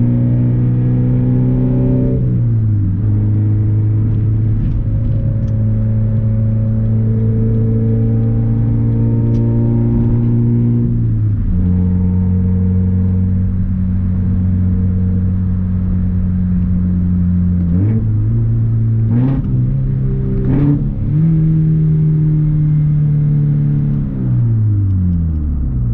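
Scion FR-S's 2.0-litre flat-four engine through a straight exhaust with the muffler and resonator removed, a steady low drone while driving. The pitch steps down at two gear changes, climbs again, then two quick revs rise and fall in succession about three-quarters of the way in, and the pitch falls away as the car slows near the end.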